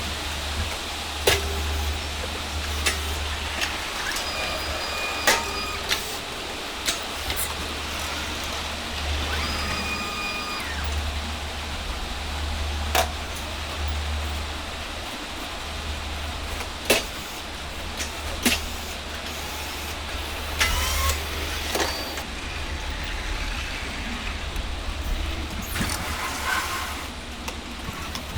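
A steady low machine hum with scattered knocks and clunks of heavy goods being handled, and two short high-pitched squeals, a few seconds in and about ten seconds in.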